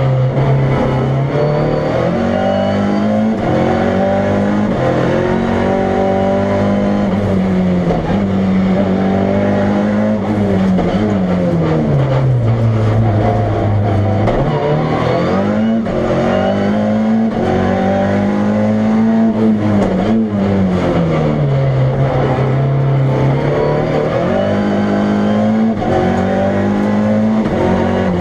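Fiat Punto Proto's 1.4-litre turbocharged Fiat Uno Turbo four-cylinder engine at race pace, its note climbing under full throttle and dropping again every few seconds as it accelerates, shifts and slows through the slalom.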